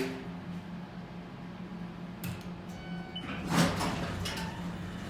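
Elevator car doors of an M.E.I. roped-hydraulic elevator sliding shut after the door close button is pressed, with a sharp click at the start and a louder swish and thump about three and a half seconds in, over a steady low hum.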